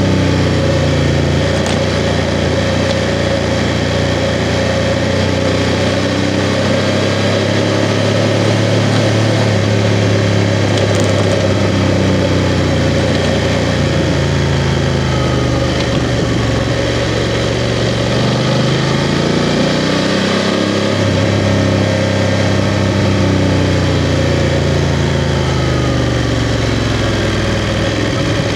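BMW F 750 GS motorcycle's 853 cc parallel-twin engine running while riding, its pitch falling and rising several times as the throttle is eased and opened again.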